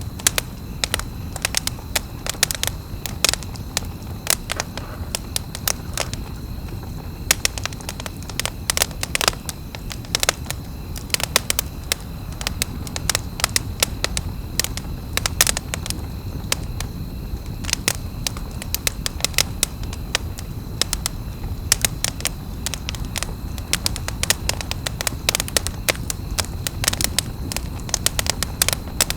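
Wood campfire burning with many sharp, irregular crackles and pops over a steady low rumble of flame.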